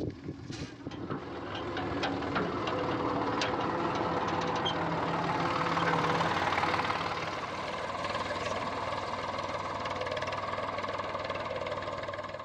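Eicher 485 tractor's diesel engine running steadily. It grows louder over the first couple of seconds and eases back about seven seconds in.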